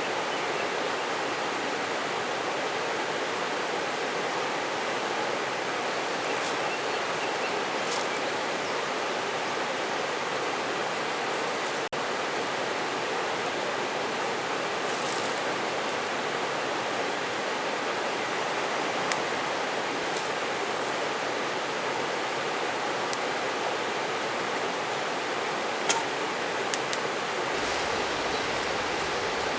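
Mountain river running with a steady, even rush. A few short, sharp high ticks break through now and then.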